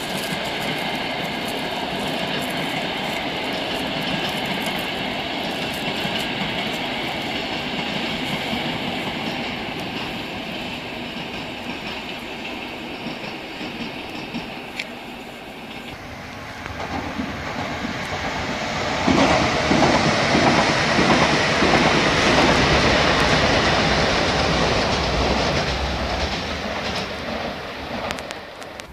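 Passenger train running by on the rails, with wheel rumble and clickety-clack and a faint high whine in the first part. It fades a little, then swells to its loudest past the middle before dying away near the end.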